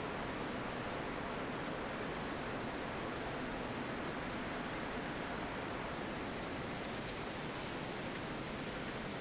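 Steady forest wind rushing through trees, an even, unbroken hiss with no distinct bird calls standing out.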